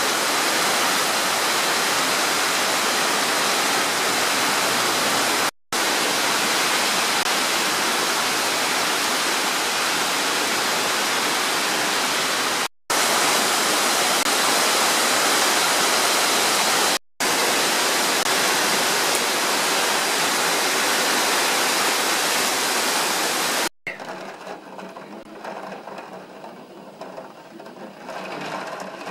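Heavy downpour: a dense, steady hiss of rain, broken off abruptly four times by brief gaps. For the last few seconds the rain sounds quieter and more uneven.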